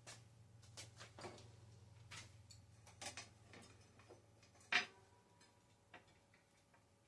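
Irregular light clicks and knocks of a bicycle front wheel and its fittings being handled and fitted into the fork, with one sharper knock a little past the middle.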